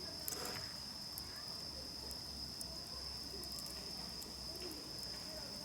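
Crickets chirring in one steady high tone, with a few faint sharp clicks near the start.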